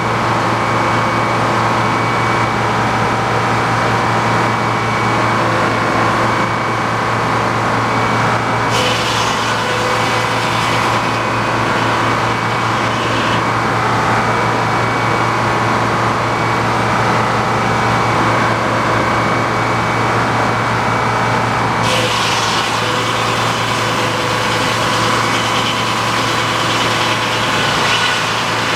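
Engine-driven sawmill running steadily at a constant note. A brighter, hissing layer comes in about a third of the way through, fades, and returns near two-thirds of the way.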